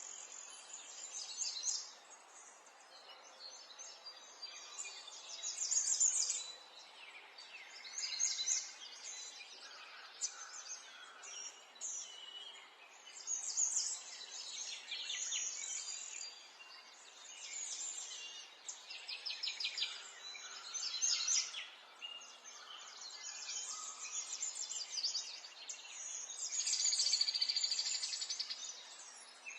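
Several small birds chirping and trilling in quick high phrases, one after another, over faint steady outdoor background noise.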